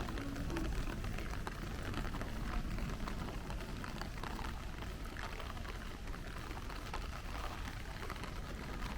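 Steady rain falling, with many small drop ticks over a constant low rumble.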